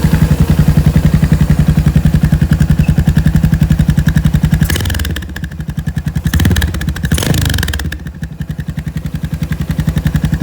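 Yamaha SR500's single-cylinder four-stroke engine running through a Peyton Place aftermarket muffler, idling with evenly spaced exhaust beats. A little past halfway the throttle is blipped twice, then the engine settles back to idle.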